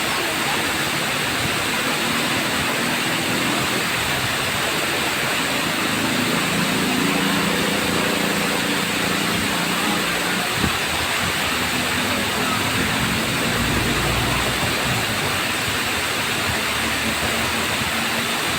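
Tamaraw Falls pouring steadily: an even, unbroken rush of falling and splashing water. A faint low hum runs underneath through the middle.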